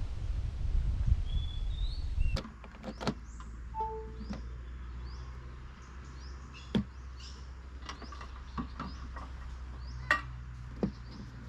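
A loud low rumble that stops abruptly a couple of seconds in. It gives way to quieter outdoor ambience with scattered sharp knocks and clicks and short high bird chirps.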